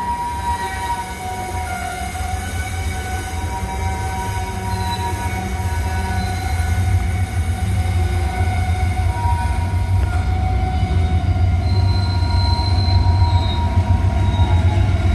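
Freight train rolling past with a heavy, steady rumble that slowly grows louder, and its wheels squealing in several thin, high, sustained tones.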